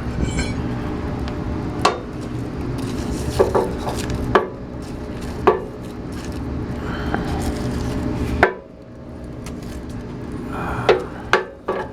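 Wood-and-coal furnace grate being shaken to drop coals and ashes through: a steady metal rattle that stops about eight and a half seconds in, with sharp metal clanks scattered throughout.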